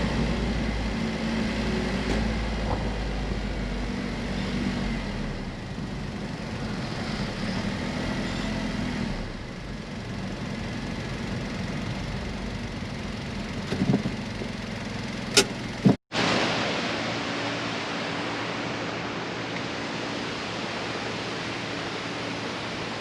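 Honda S660's small turbocharged three-cylinder engine running with road noise while driving, heard from the rear-set camera mic. A couple of sharp clicks come just before an abrupt cut about two-thirds of the way in, after which a steady hiss continues.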